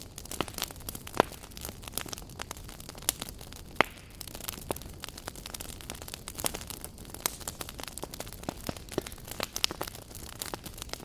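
Wood fire crackling in a fireplace: irregular sharp pops and snaps over a steady low hiss of burning.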